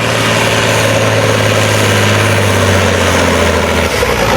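Farm stock diesel tractor engine running steadily under load as it pulls the weight sled down the track. Its steady note drops away about four seconds in, as the pull comes to an end.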